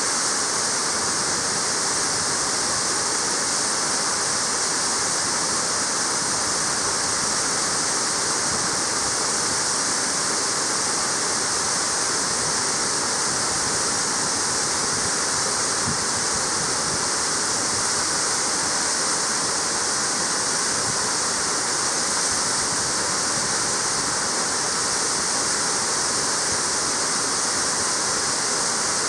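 Waterfall falling steadily, a constant hiss of cascading water with no change in level.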